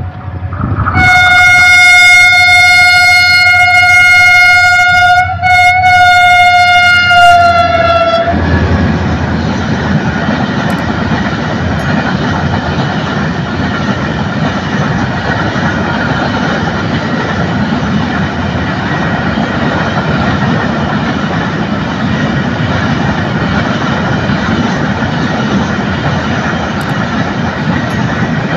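HGMU-30R diesel locomotive's horn sounding one long blast of about seven seconds, with a brief break partway and a slight fall in pitch as it ends. Then the coal train's wagons rumble past steadily.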